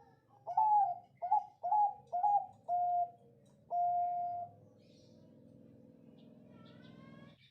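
Bangkok-type zebra dove (perkutut) cooing: five short coos in quick succession, then one longer, held coo.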